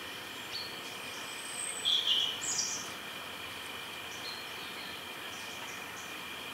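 Woodland ambience: a steady hiss with a faint high hum underneath, and wild birds calling, a short burst of chirps about two seconds in and a few brief faint chirps elsewhere.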